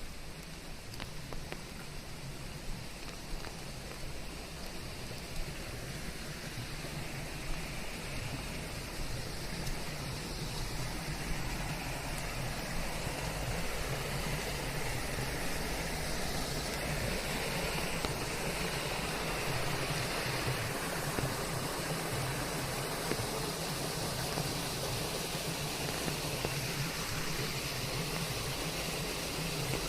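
Steady rain falling, an even hiss that swells slightly louder partway through.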